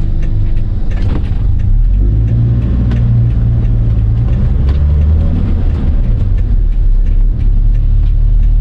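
Car engine heard from inside the cabin of a manual-gearbox Toyota, its revs rising for a few seconds and then easing as the car pulls away from a stop on a slight uphill using the half-clutch.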